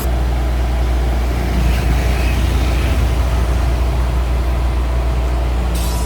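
Heavy diesel truck engine running steadily, with a short hiss near the end.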